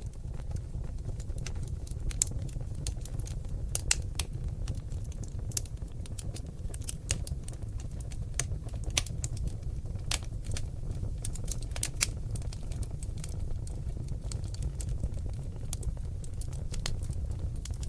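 Seasoned oak logs burning in a fireplace: irregular sharp crackles and snaps, a few louder pops, over a steady low rumble of the flames.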